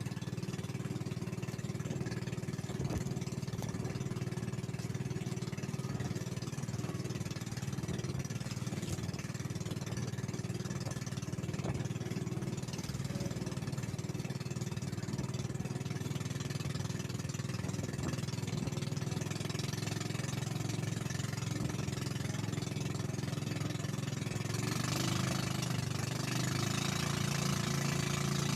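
Boat engine running steadily throughout; it gets louder, with more hiss, near the end.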